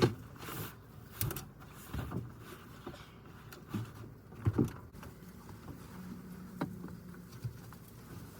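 Scattered soft thumps and knocks, about half a dozen, from bedding and fittings being handled while beds are made up in a camper, with a low steady hum for a second or two past the middle.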